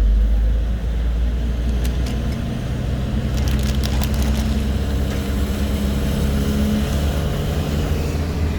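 Motor vehicle running, a steady low rumble with an engine hum, with a few faint clicks about two to four seconds in.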